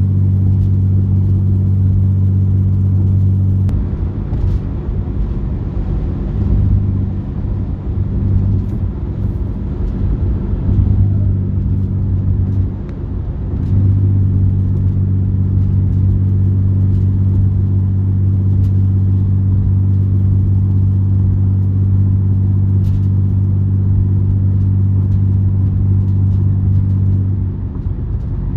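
Car driving, heard from inside the cabin: a steady low engine and road drone. From about four to fourteen seconds in, the even hum turns rougher and uneven before settling again.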